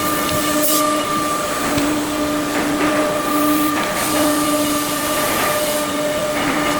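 5-axis CNC machine running: a steady whine with overtones over a constant hiss, with a few light clicks.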